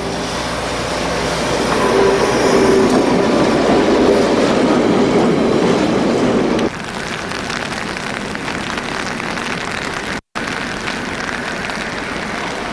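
A diesel-hauled train running past with the rumble of its wheels on the rails, growing louder over the first two seconds. About halfway through the sound cuts suddenly to a quieter, steady noise.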